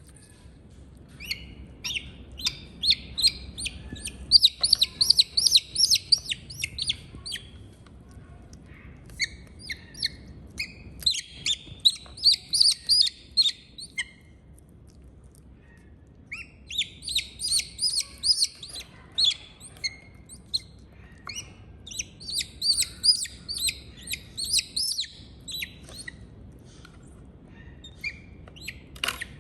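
Bird chicks chirping rapidly in repeated high-pitched bouts of a few seconds each, with short pauses between them.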